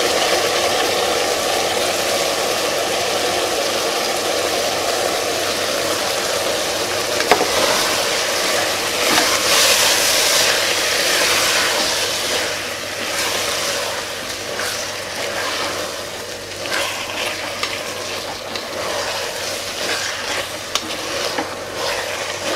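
Vegetables sizzling in an aluminium pressure cooker as drained soaked basmati rice is tipped in. In the second half the rice is stirred through, with short scraping strokes and clicks against the pot.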